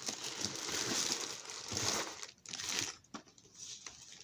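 Packaging being handled and crinkling for about two seconds, then a quieter stretch with a few light clicks.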